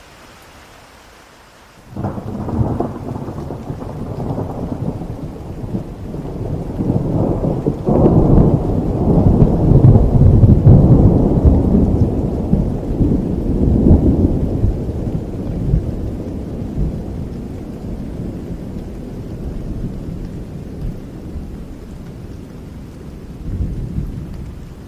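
A thunderclap breaks out suddenly about two seconds in over steady rain, then rolls and rumbles long and deep, swelling to its loudest about ten seconds in and slowly dying away, with a smaller rumble near the end.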